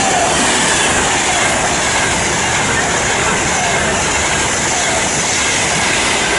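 Class 390 Pendolino electric train passing through the station at speed without stopping: a steady, loud rush of wheel-on-rail and air noise.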